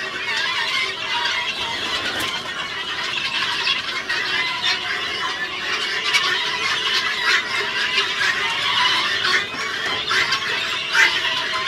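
A flock of helmeted guineafowl calling all at once, a steady shrill chatter of many overlapping squeals.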